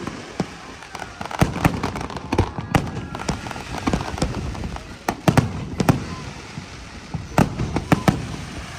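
Fireworks exploding: a string of sharp bangs at irregular intervals, coming thickest about five seconds in and again near the end, over a steady background rumble.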